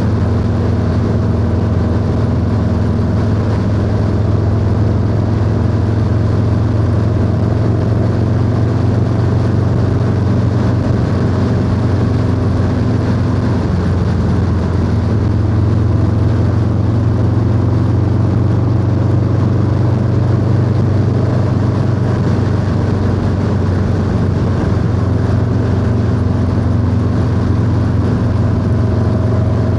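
Harley-Davidson Low Rider S V-twin engine running steadily under way through a 2-into-1 exhaust, heard from the rider's seat. Its pitch shifts slightly about midway and again later, as the speed changes.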